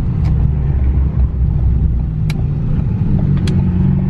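Ford Focus ST's turbocharged four-cylinder engine at a steady cruise, heard from inside the cabin as a constant low drone. Three short, sharp clicks sound over it.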